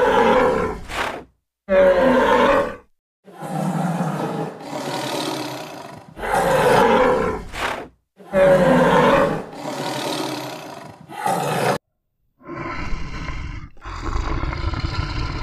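Animal roars and calls, one after another with short silent gaps between them; the last two, near the end, are lower and rougher.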